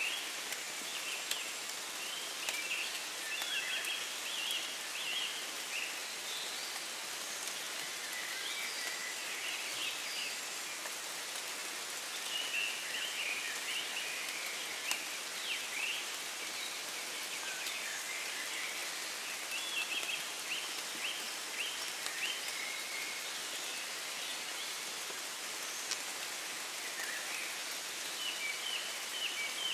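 Steady rain falling in woodland, pattering on leaves. Small birds sing in recurring bursts of quick, high chirps over it: a dawn chorus.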